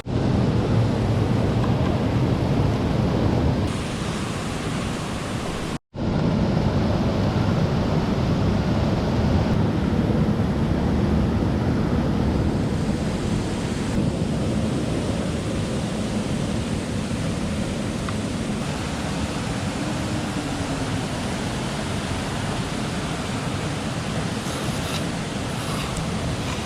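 Swollen mountain stream in spate, water rushing loud and steady, with a momentary break about six seconds in.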